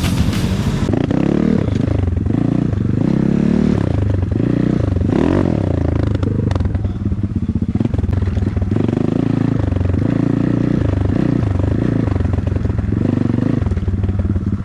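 Intro music cutting off within the first second, then an off-road vehicle engine running and being revved over and over, its pitch rising and falling, with some clatter.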